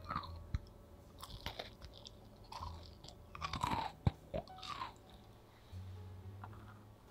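A person chewing a brownie cookie with a crisp crust: irregular crunches and chewing, busiest around the middle.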